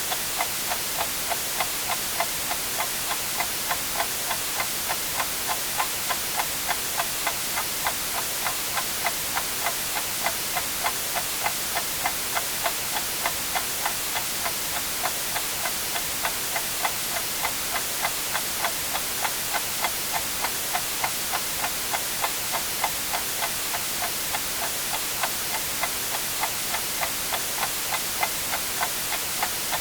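Clock ticking steadily, about two ticks a second, over a constant hiss of white noise.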